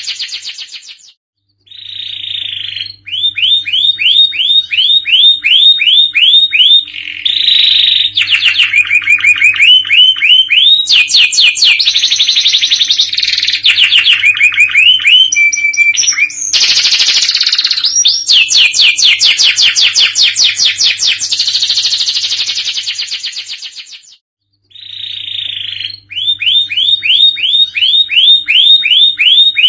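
Domestic canary singing a long, loud song of rapid trills and quickly repeated rising notes, broken by two short pauses, one about a second in and one near the end. A faint steady low hum runs underneath.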